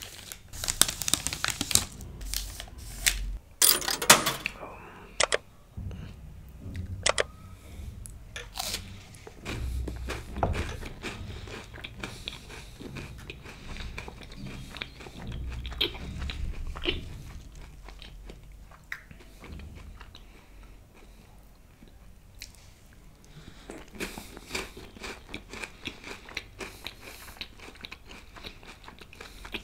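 Close-miked crisp bites into a chocolate-coated wafer bar, a Munch Nuts, with loud cracking crunches in the first few seconds, then steady chewing with small crunches that eases off for a few seconds and resumes near the end.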